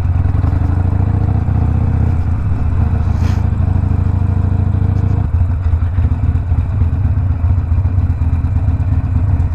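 Harley-Davidson Sportster Iron 1200's air-cooled V-twin running under way through a Two Brothers 2-into-1 exhaust, its pitch rising over the first couple of seconds. The engine note changes about five seconds in, and there is one short sharp click at about three seconds.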